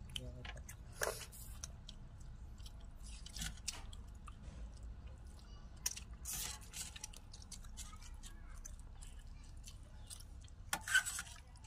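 Several people eating with their hands and spoons: chewing sounds and irregular small clicks, with a louder burst near the end.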